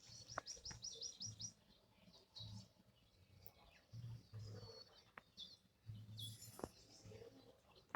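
Faint bird calls: a quick run of about eight high chirps in the first second and a half, then scattered single high calls, over a low intermittent rumble.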